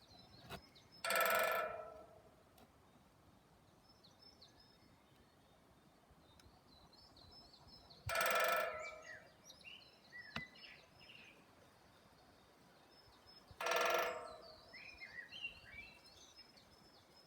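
Woodpecker drumming on wood: three rapid rolls of knocks, each about a second long and several seconds apart. Small birds chirp faintly between the rolls.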